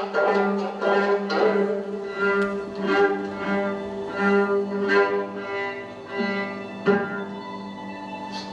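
Instrumental music with bowed strings: short repeated notes over a held low note, with a sharper accented note about seven seconds in.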